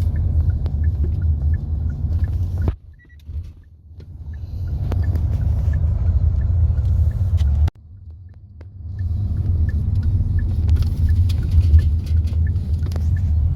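Road and engine rumble of a moving car heard from inside the cabin. It cuts out abruptly twice, about 3 and 8 seconds in, and each time returns within a second or two. Faint, regular light ticks run over it.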